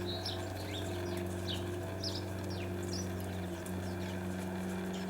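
Small songbirds chirping in short, quick notes that sweep downward, over a steady low mechanical hum.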